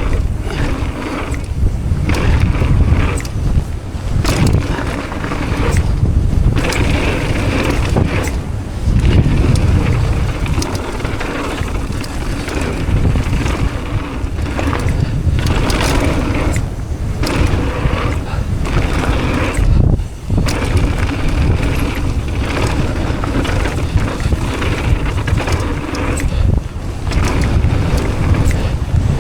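Mountain bike descending a dirt trail, heard through an action camera's microphone: a steady, uneven rush of wind buffeting and tyre noise, with scattered knocks and rattles from the bike over the ground.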